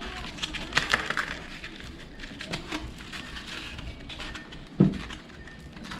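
Sandpaper and tools handled on a workbench: rustling and scraping with scattered clicks, and one solid knock just before the five-second mark.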